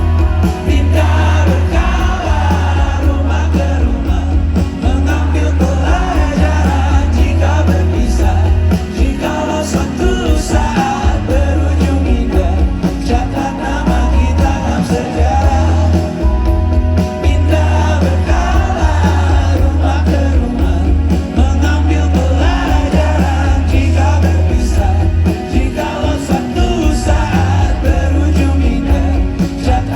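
Live band music at loud concert volume, with heavy bass and singing, recorded on a phone in the audience.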